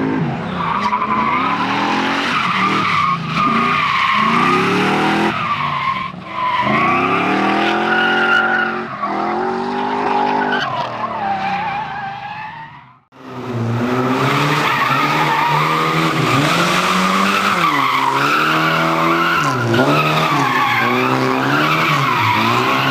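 Competition car engine revving hard, climbing through the gears in repeated rising sweeps, with tyres squealing. About thirteen seconds in the sound cuts out briefly and another passage of hard engine running and tyre squeal follows.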